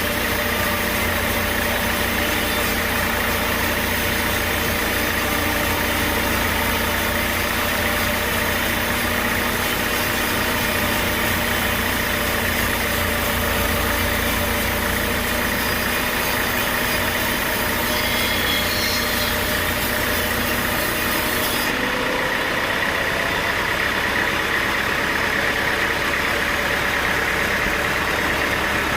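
Sawmill machinery running steadily with an engine-like hum. About three-quarters of the way through the sound changes abruptly, with less hiss and a lighter low hum.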